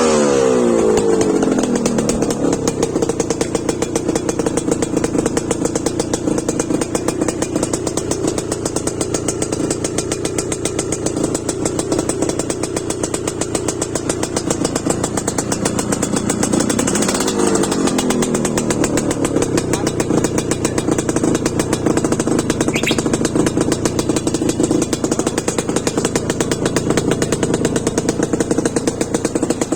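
Memnun TS250E motorcycle engine running at a steady idle, settling down from a rev at the start and revved up and back down once a little past the middle.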